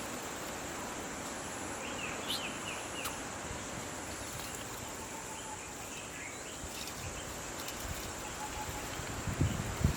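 Steady high-pitched drone of insects, with a few short bird chirps about two seconds in and some low thumps near the end.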